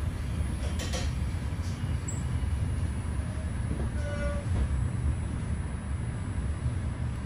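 Passenger train running past a station platform, heard from inside the carriage: a steady low rumble, with a few faint short tones about four seconds in.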